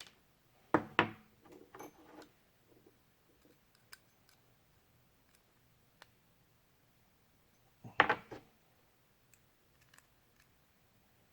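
Small tools and parts of an RC helicopter's tail assembly clicking and clattering as they are handled and set down on a workbench during disassembly: two louder clatters, about a second in and again near eight seconds, with faint single ticks between.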